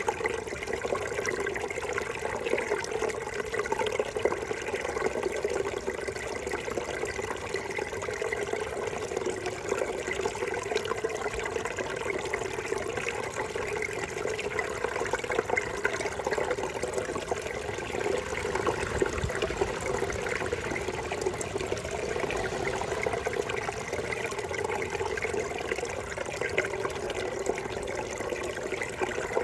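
Brook babbling steadily: running water gurgling over rocks, an even, unbroken sound.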